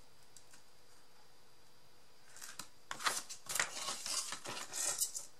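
Crafting paper and chipboard pieces being handled, with a quick run of short crackling and snipping sounds starting about two seconds in.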